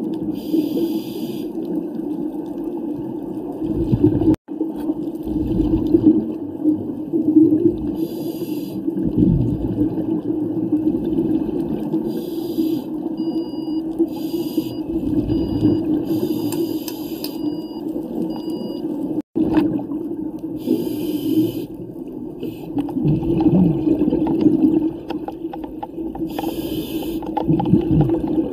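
Muffled underwater sound of a scuba dive: a steady low drone, with short bursts of bubbling hiss every few seconds from a diver's exhaled bubbles.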